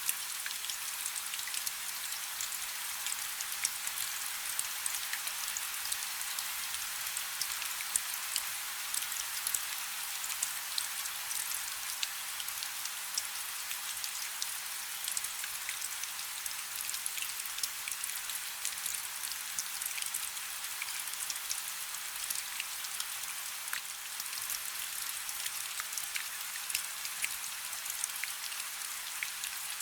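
Light rain falling steadily, a continuous hiss of many small, sharp drop patters landing on a surface.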